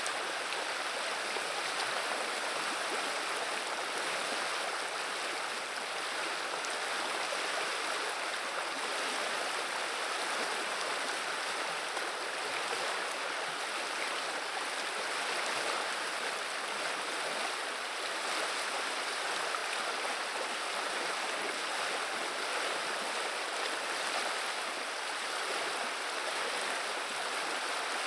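River water running steadily over the shallows, a continuous babbling rush with no breaks.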